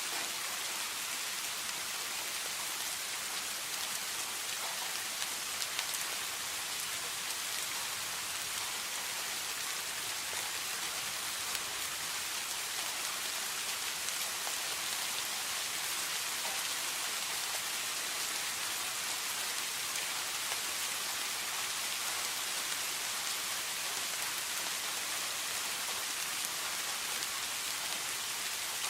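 Steady rain falling on a surface, a dense even hiss with occasional individual drops ticking.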